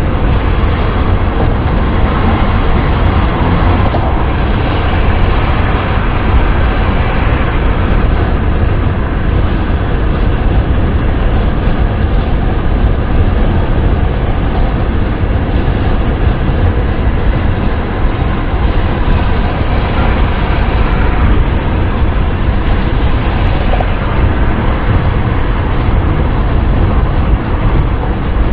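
Steady wind and road noise inside a car moving at speed, a deep, even noise with no changes.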